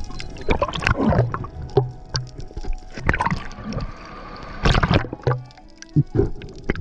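Water splashing and gurgling in uneven bursts, a second or two apart.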